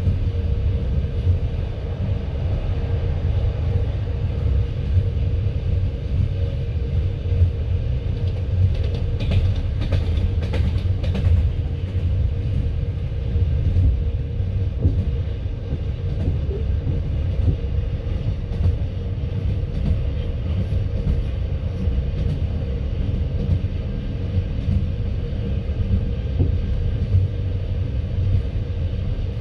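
Passenger train running, heard from inside the carriage: a steady low rumble of the wheels on the track, with a short run of sharp wheel knocks about nine to eleven seconds in.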